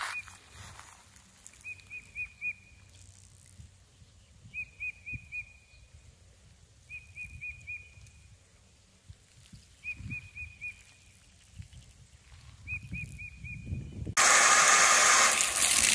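A bird repeating a short phrase of four quick high notes, six times about three seconds apart. Near the end a loud, steady rushing noise starts suddenly.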